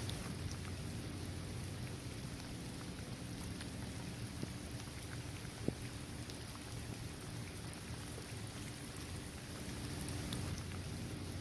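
Steady rain falling on a paved basketball court, trees and grass, with scattered sharper drop ticks and one louder drip about halfway through.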